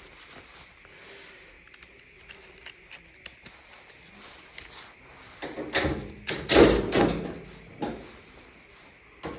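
Hands working on a dryer's metal cabinet and parts: light clicks and taps at first, then a couple of seconds of loud scraping and rattling about six seconds in, and a sharp click shortly after.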